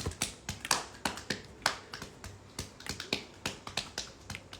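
Quick, irregular sharp clicks and taps close to the microphone, several a second.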